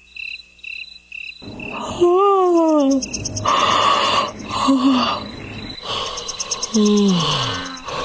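Animal calls: steady high chirping about three times a second, then rapid high trills joined by several lower calls that slide down in pitch.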